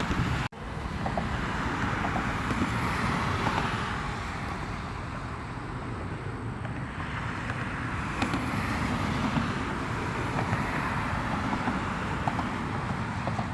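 Steady engine roar, a continuous noisy rumble with no clear pitch, broken by a brief dropout about half a second in.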